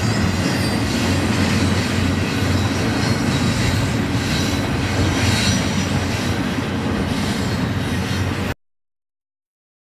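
Tail end of a BNSF double-stack intermodal train, its container well cars rolling past on the rails with a steady rolling noise of steel wheels and some metallic clatter. The sound cuts off abruptly about eight and a half seconds in.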